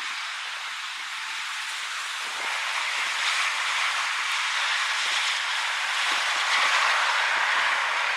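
Blizzard wind with blowing snow: a steady rushing hiss that swells louder about three seconds in and again near the end.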